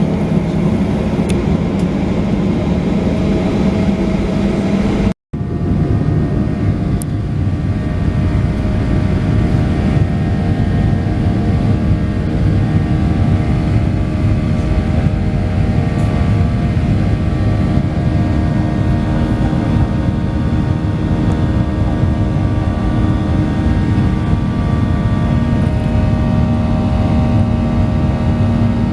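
Boeing 737-900ER's CFM56-7B jet engines heard from inside the passenger cabin: a loud, steady rumble with several steady engine tones over it. The sound cuts out for a split second about five seconds in.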